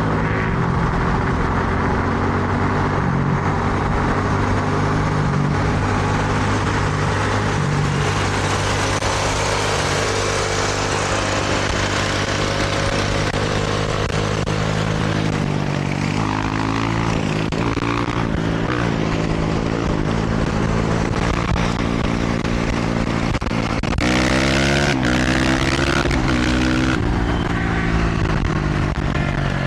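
Honda CRF450R single-cylinder four-stroke dirt bike engine running and rising and falling in pitch as the throttle changes, most clearly about 16 to 20 seconds in and again near the end. Rushing wind noise of riding lies under it throughout.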